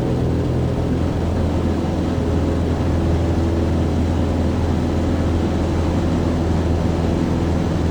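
Cessna 150's Continental O-200 four-cylinder engine and propeller running steadily at full power during the takeoff roll.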